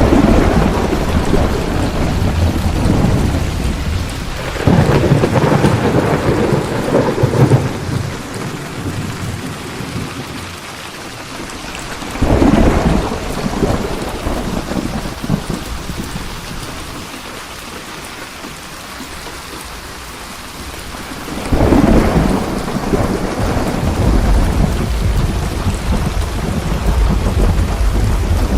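Thunderstorm: steady rain falling with rolling thunder that swells up several times, at the start, about five seconds in, about twelve seconds in, and again about twenty-two seconds in, where a low rumble carries on to the end.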